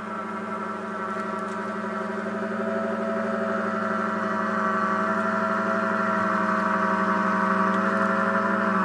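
John Deere X738 garden tractor engine running steadily at high throttle to drive its front-mounted PTO snowblower. It holds an even pitch and grows gradually louder.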